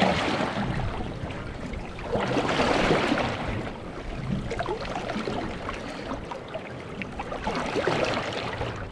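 Choppy water sloshing and splashing against the stern of an anchored aluminium boat. The splashing surges and fades with the waves and is loudest about three seconds in.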